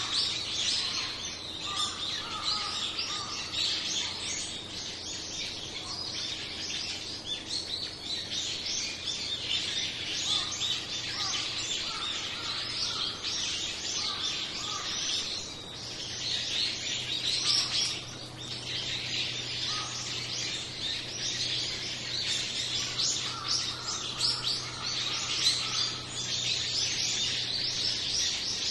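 A flock of small birds chirping continuously, with many short, high calls overlapping.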